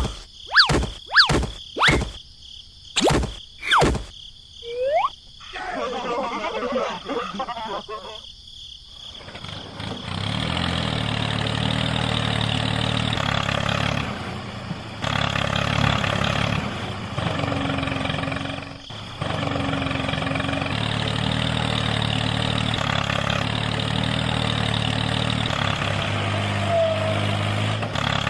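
A few short sharp hits with quick sweeps in the first seconds, then from about ten seconds in a steady engine running sound, as of a small tractor engine, with a low even hum that briefly dips and changes a few times.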